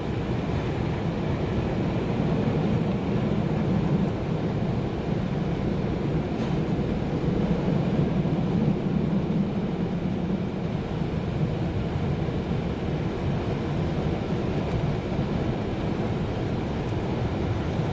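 Steady low rumble of automatic car wash machinery.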